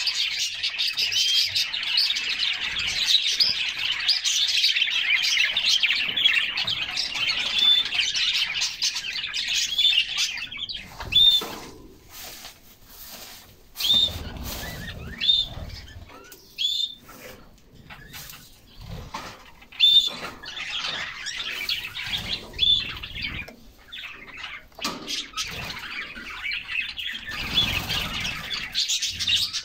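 Canaries singing: a continuous, dense warbling song for about the first ten seconds, then scattered separate chirps. A few short fluttering bursts of wing-flapping come in between.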